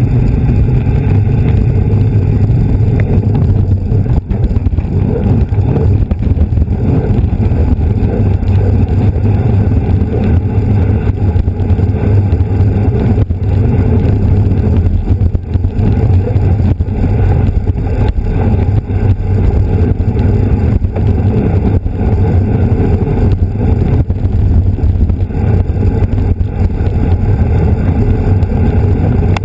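Steady, loud wind rush buffeting the microphone of a bicycle-mounted camera at race speed.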